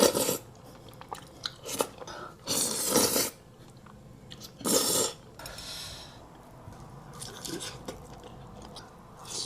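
Close-miked eating of crispy fried chicken: three loud crunchy bites in the first half, then quieter chewing.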